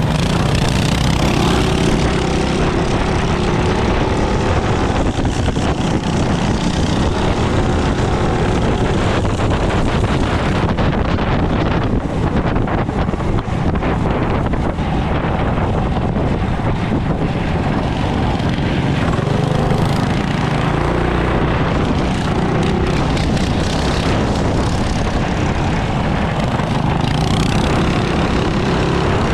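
Mini bike's small engine running under way, its pitch shifting with the throttle, with wind buffeting the microphone.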